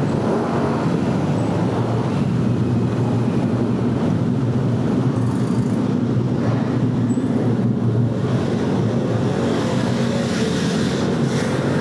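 Steady, low engine hum that holds one even pitch without revving or stopping.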